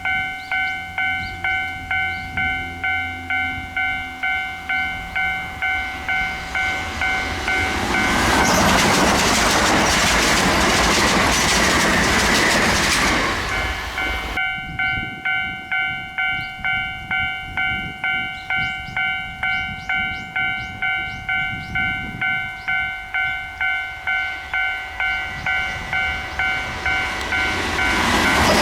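Railway level-crossing alarm bell ringing in steady, evenly spaced strikes. About eight seconds in, a Kintetsu train passes for about six seconds, its wheels and motors drowning the bell. After a sudden change the bell rings on, and another train's noise builds near the end.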